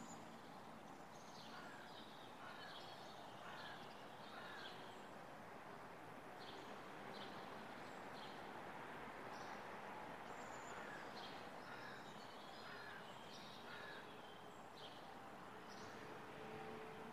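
Birds chirping faintly over a quiet, steady background hiss, with many short high calls scattered irregularly throughout.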